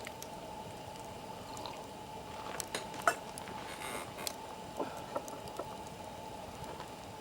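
Wood fire crackling, with irregular sharp pops and snaps over a steady low background; the loudest pop comes about three seconds in.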